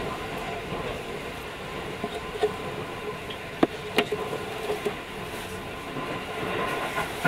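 Keio 5000 series commuter train heard from inside a passenger car while running: a steady rolling rumble with a faint steady hum. A few sharp clacks come a little past halfway.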